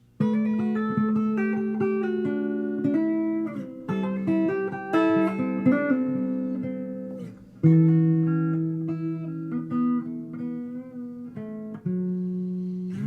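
Solo guitar improvising, moving between held chords and single-note phrases. It starts suddenly, and a loud new chord is struck about halfway through after a brief fade.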